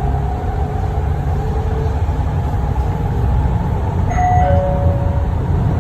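MRT train running with a steady low rumble. About four seconds in, a two-note falling chime sounds, the signal that comes before an announcement.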